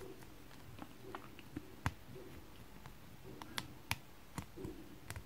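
Small plastic toy parts clicking and being handled while arms are fitted onto a little snap-together toy figure: faint rustling with a few sharp clicks at irregular moments.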